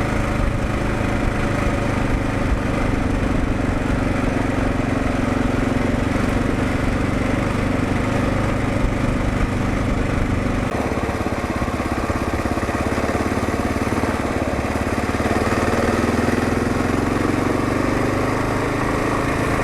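Kawasaki KLR650's single-cylinder engine running steadily under way, heard from the rider's position. Its note changes about ten seconds in and climbs again a few seconds later.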